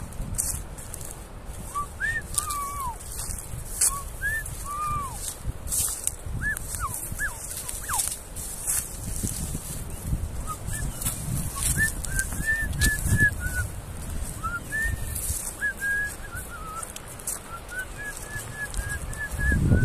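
Birds calling with short whistled chirps that rise and fall in pitch, now and then in quick runs of several notes, over a low rumble of wind on the microphone.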